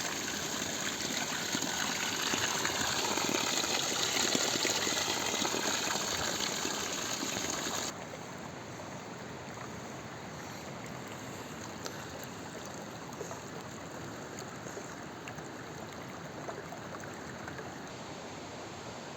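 Water of a waterfall rushing steadily. About eight seconds in it drops suddenly to a quieter, duller rush.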